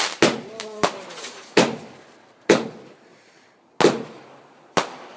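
Fireworks bursting: about six sharp bangs at uneven intervals, each trailing off in an echo.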